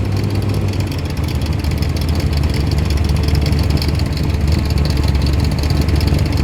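Car engine running at low revs, a steady deep note, as a car rolls slowly in.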